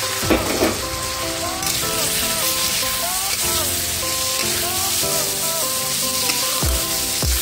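Diced vegetables and peas sizzling in hot oil in a kadhai as they are stirred with a spatula, with a brief louder rush about half a second in. Background music plays a melody over the sizzle.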